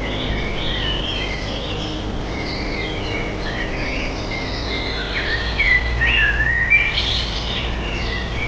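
Several birds chirping and twittering, overlapping short calls with swooping pitch, busiest and loudest about five to seven seconds in, over a steady low hum.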